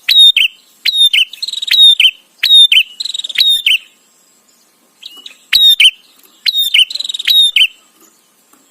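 A prenjak (prinia) calling in loud, rapid chattering phrases: sharp, high, downward-sweeping chip notes come about two a second, with a short buzzing trill between them. The bird pauses briefly about four seconds in, then starts again.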